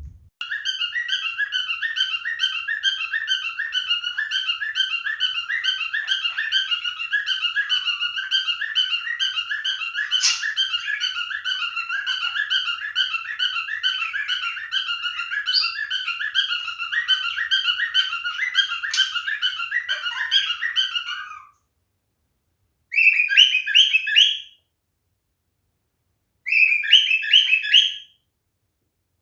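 Male cockatiel chirping and calling in a fast, continuous run of repeated notes, then two short bursts of the same chirping after it stops about 21 seconds in.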